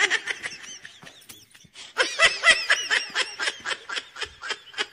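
High-pitched giggling in a quick run of short bursts, faint at first and louder from about two seconds in.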